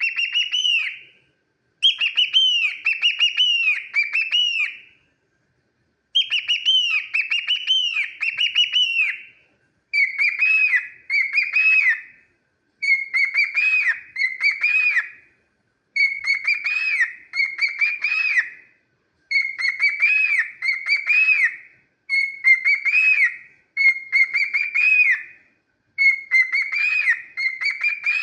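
Cockatiel whistling a warbling song of gliding up-and-down notes, in bouts of two to three seconds with short pauses between, repeated again and again.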